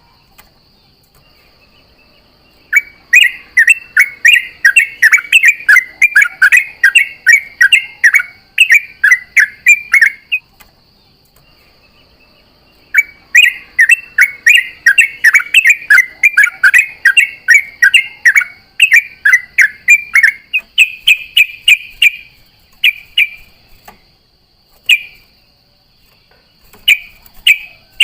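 Yellow-vented bulbul singing long runs of rapid bubbling chatter in two bouts of about seven and ten seconds, then a few short phrases near the end. A steady high thin whine runs beneath.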